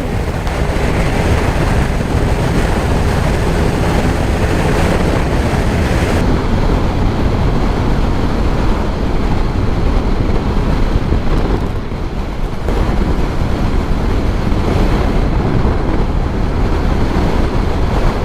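Motorcycle riding at speed: the engine runs steadily under heavy wind rush on the rider's camera microphone.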